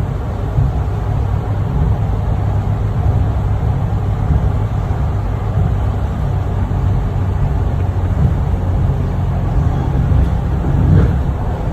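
Rapid KL MRT Putrajaya Line train running: a steady low rumble, swelling slightly near the end.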